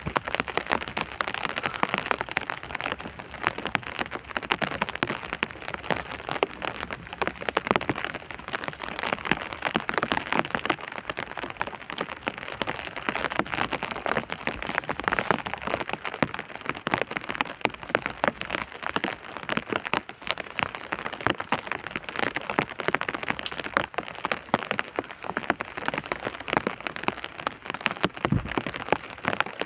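Steady rain falling on a hard surface: a dense, even spray of small drop clicks.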